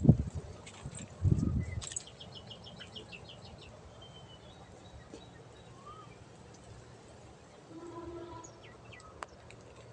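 Outdoor ambience with small birds chirping: a quick run of about ten short high chirps about two seconds in, then scattered single calls. Low bumps of handling noise on the microphone in the first two seconds are the loudest sounds.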